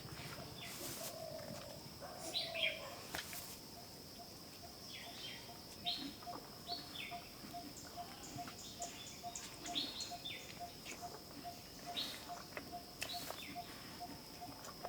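Rural outdoor ambience: small birds chirping in short, quick falling notes, over a steady high insect drone and a soft note pulsing about two to three times a second.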